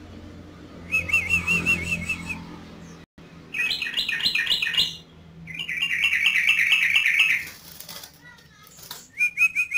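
Yellow-vented bulbul (trucukan) singing in loud phrases of rapid, bubbly repeated notes, four phrases with short pauses between them.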